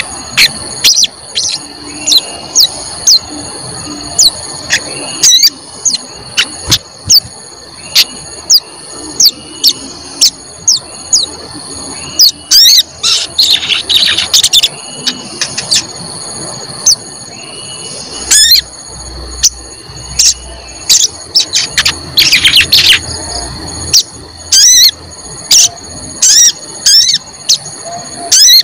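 Sogon bird calling over and over with short, sharp 'cuit cuit' chirps, roughly one a second, coming in quicker clusters about halfway through and again near the last third. A steady high-pitched tone runs underneath.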